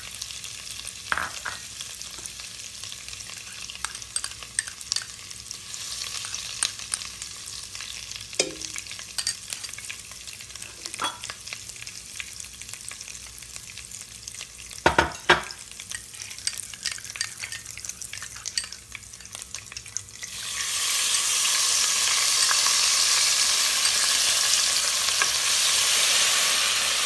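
Oil and onion paste frying in a pan, sizzling while a spoon stirs and knocks against the pan now and then. About two-thirds of the way through the sizzle suddenly becomes much louder and stays loud.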